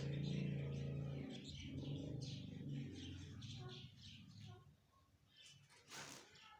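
Parrots chirping in a string of short, high chirps, over a low drone that is loud for the first few seconds and fades about three seconds in.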